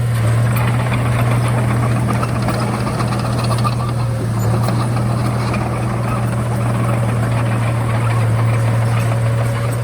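Komatsu D31A bulldozer's diesel engine running steadily with a deep, even drone.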